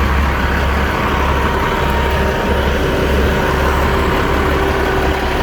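Heavy vehicle engine running steadily, a low rumble with a thin steady whine over it.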